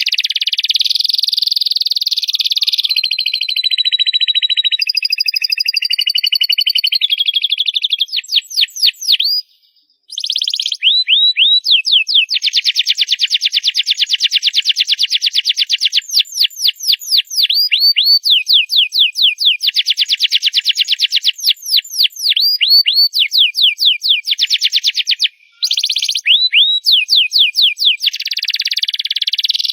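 Domestic canary singing loudly: a long, fast song of trills and rolls made of rapidly repeated falling whistled notes, broken by two brief pauses, one about a third of the way in and one near the end.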